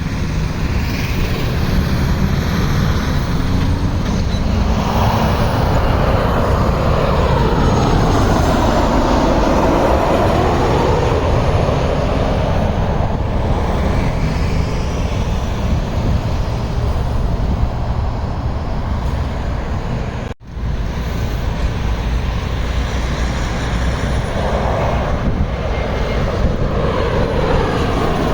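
Jet airliner passing low overhead on its landing approach: loud steady engine noise with slowly sweeping, phasing tones as it goes by, and another building near the end. The sound cuts out for an instant about two-thirds of the way through.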